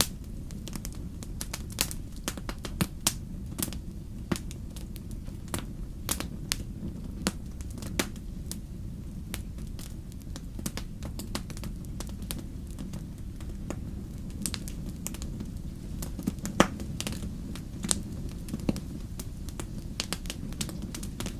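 Wood fire burning with a steady low rumble and frequent irregular crackles and pops from the burning wood, with one louder pop about two-thirds of the way through.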